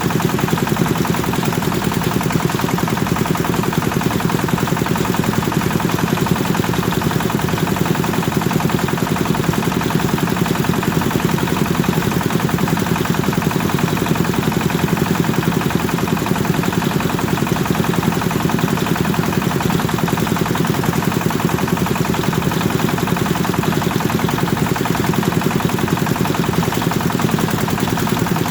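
Kubota engine running a rice thresher (prontok padi) at steady working speed, with a fast, even chatter of engine firing and threshing drum.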